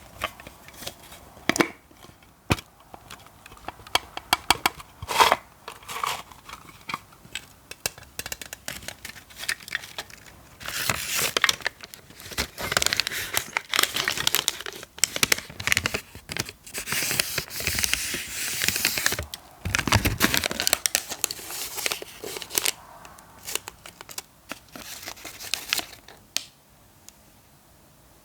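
Close-miked ASMR tapping and scratching on objects. Sharp separate taps give way to a long stretch of dense, crinkly scratching through the middle, then scattered taps again that stop near the end.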